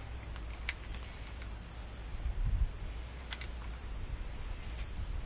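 A steady, high insect chorus, with a few faint clicks and a soft low thump about two and a half seconds in.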